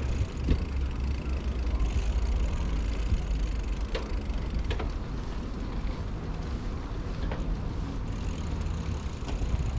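Steady low rumble of a bicycle ride, wind and rolling noise on the microphone, with a few short sharp clicks scattered through it.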